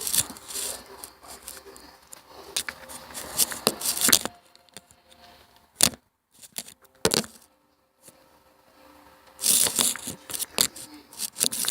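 A phone being handled and repositioned: rustling, scraping and knocks close to the microphone, in two busy spells with quiet gaps between.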